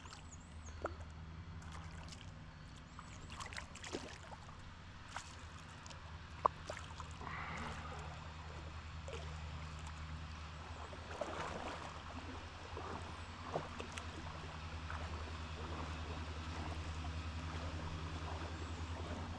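Shallow creek water trickling and sloshing, with a steady low rumble and scattered small clicks and splashes, louder in the second half.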